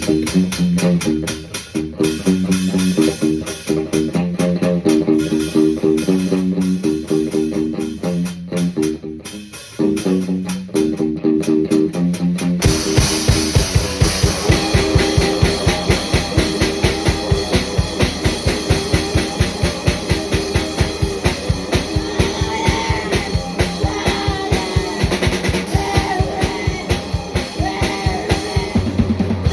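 Guitar and drum kit playing a repeated riff together. About twelve seconds in the band goes into a louder, fuller section with fast, even bass-drum strokes.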